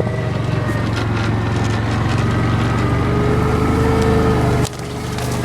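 Engine of a small utility truck running steadily while riding, dropping off suddenly near the end and then picking back up.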